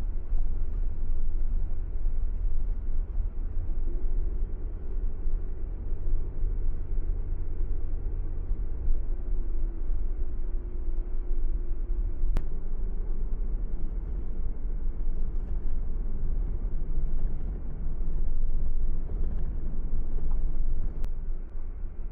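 Car driving on the road: a steady low rumble of engine and tyre noise, with a faint hum rising above it for several seconds near the middle.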